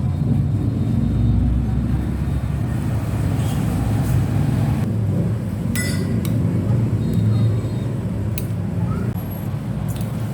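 Steady low rumble, with a few short clinks of a spoon against a bowl of meatball soup.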